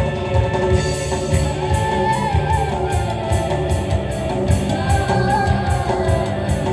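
Campursari band music played live, with singing over a steady, regular beat.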